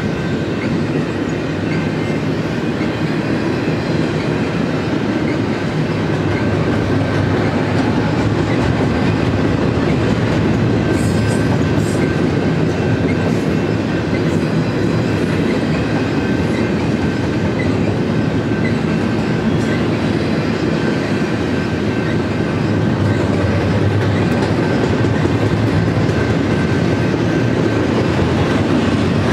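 Double-stack intermodal freight train's container cars rolling past close by: a steady, loud noise of steel wheels on the rails, with a few brief high wheel squeaks about eleven seconds in.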